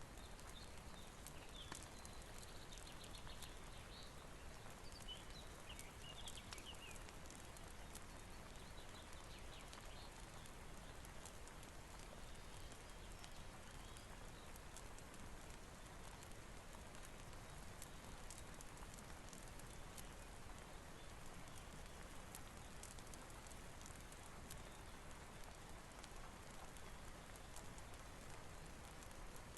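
Faint, steady rain with scattered drips, and a few brief high chirps in the first several seconds.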